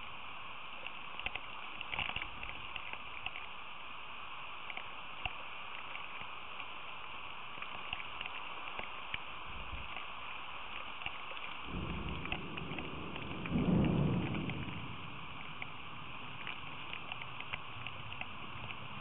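Steady rain with many sharp drip ticks, as drops strike close by. About two-thirds of the way through, a low rumble of thunder swells, peaks and fades over a few seconds.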